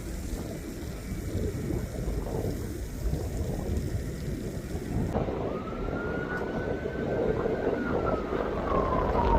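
Low rumble of jet aircraft noise with wind on the microphone. About five seconds in the sound changes abruptly, and a single high whine slowly rises, falls and rises again over the rumble.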